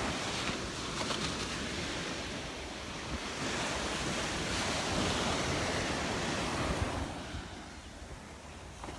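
Surf breaking and washing up the beach, with wind buffeting the microphone. It swells a few seconds in and eases off near the end.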